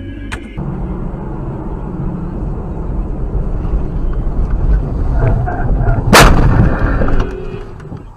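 Loud low rumble building up for several seconds, then a sharp, loud bang about six seconds in, typical of a road collision caught on a vehicle camera.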